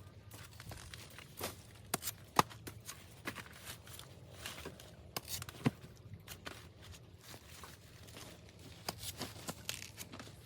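Irregular rustling and tearing of dry banana leaves and stalk material as it is handled, with scattered sharp snaps and knocks. The two loudest snaps come about two and a half and about five and a half seconds in.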